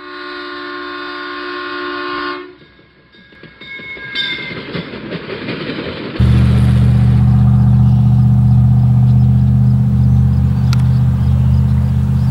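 A train horn chord sounds for about two seconds, followed by a rising whoosh. About six seconds in, a loud, steady low rumble from an approaching diesel freight locomotive begins suddenly and carries on.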